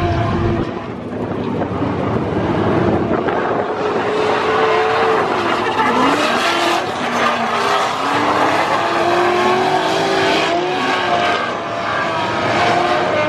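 Drift cars running on the track: engines revving with pitch rising and falling again and again, over tyre squeal and skidding noise.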